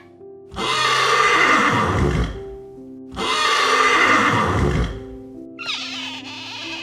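Horse neighing twice, each whinny lasting under two seconds, over background music; near the end a different, wavering animal call begins.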